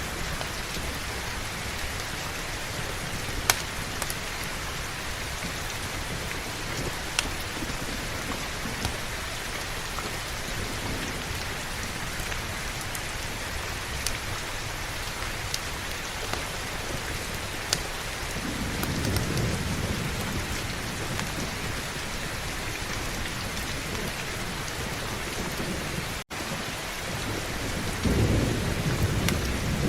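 Heavy rain falling steadily, with low rolls of thunder swelling twice, about two-thirds of the way in and again near the end. Scattered sharp clicks sound over the rain, and the sound briefly cuts out for an instant a little before the second rumble.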